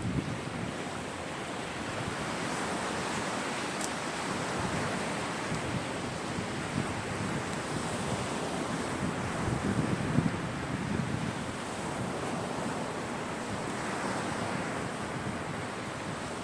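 Sea waves washing onto a beach in a steady rush, swelling a little louder about ten seconds in.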